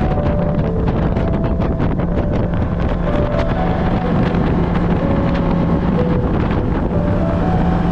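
Motorboat running steadily under way on the lake, a constant low engine hum with water splashing against the hull and wind buffeting the microphone.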